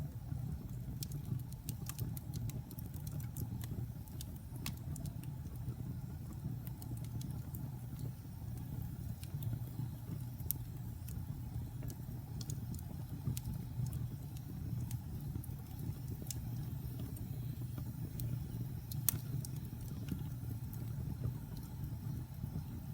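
Wood fire burning in a fireplace: a steady low rumble of flames with many irregular sharp crackles and pops of the burning wood, one louder pop about nineteen seconds in.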